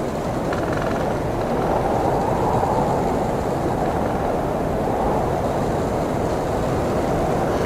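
Blizzard wind blowing in a steady low rush that swells slightly about two seconds in.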